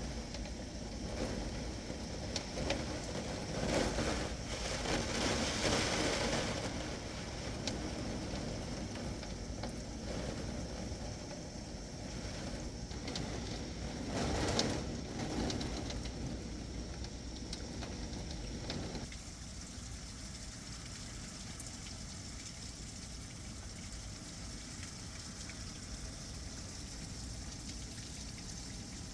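Heavy rain pouring down in a thunderstorm downpour, a steady hiss that swells louder twice and settles slightly quieter about two-thirds of the way through.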